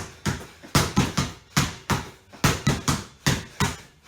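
Basketball dribbled hard and fast on a floor, about three sharp bounces a second in an uneven pattern, as in a pound-push-pull ball-handling drill.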